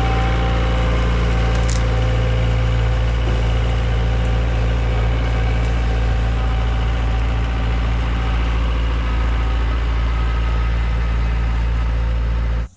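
Yanmar B50 compact excavator's diesel engine running steadily at a constant speed, loud and close. It cuts off suddenly near the end.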